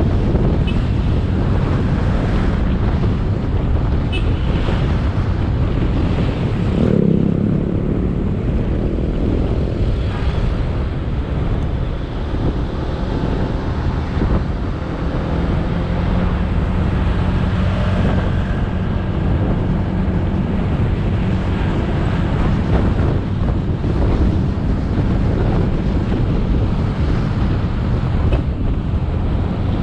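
Motorbike engine running while riding, under a heavy rush of wind on the camera's microphone. There is a brief louder low swell about seven seconds in.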